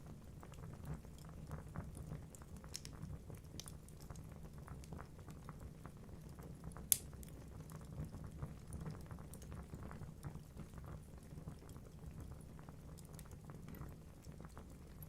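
Wood fire burning in a fireplace: a low steady rumble of flames with frequent small crackles of the logs and one sharp pop about seven seconds in.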